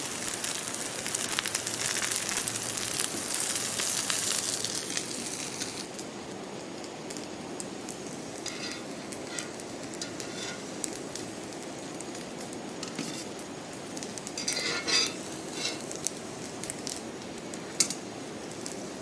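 Slices of pathrode sizzling in coconut oil on a hot tawa for about the first six seconds, then a fainter steady hiss with a few light metallic clinks.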